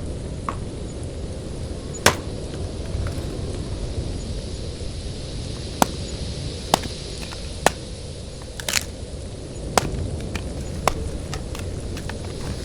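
Axe chopping firewood: sharp, single strikes on wood, about one a second in the second half, over a steady low rumble of blizzard wind.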